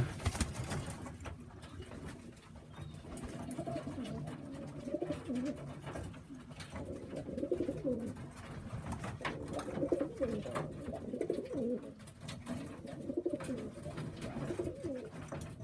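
Tippler cock pigeon cooing over and over in low warbling bouts: the display coo of a cockbird among hens, which marks him as the only cock of the lot.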